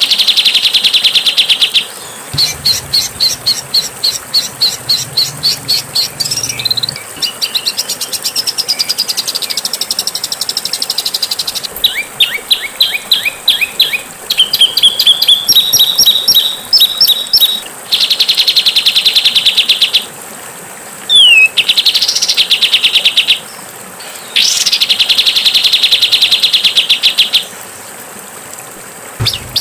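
Songbird training (masteran) song: bursts of fast, harsh rattling trills and chatter, each lasting one to three seconds, with short pauses and a few quick up-and-down whistled chirps between them.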